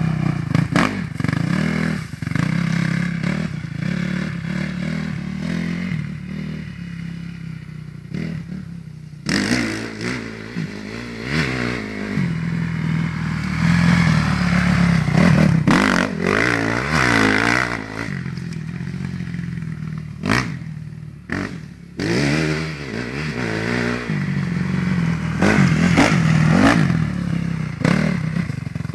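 Motocross bike engine revving up and easing off over and over as it is ridden through tight corners, its pitch and loudness rising and falling several times.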